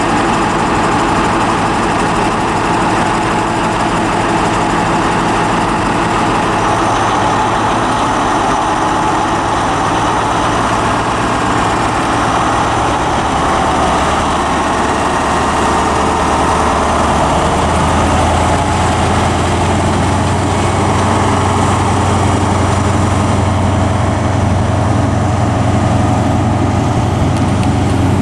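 Diesel train engine running at a station platform, a steady mechanical drone whose low hum grows stronger about two-thirds of the way through.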